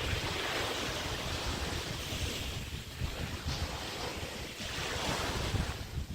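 Small bay waves breaking and washing up the beach in several hissing swells, with wind rumbling on the microphone.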